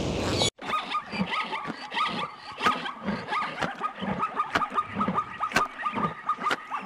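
A white rhinoceros and zebras grazing: dry grass being torn and chewed in sharp crunches, about two a second, with soft low thuds between. A steady high chirping with short falling chirps runs behind. A brief rush of noise cuts off about half a second in.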